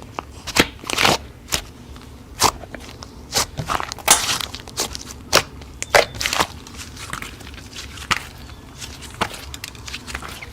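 Slime being squeezed and poked by hand, giving irregular crackling pops and clicks, with a longer burst of crackling about four seconds in.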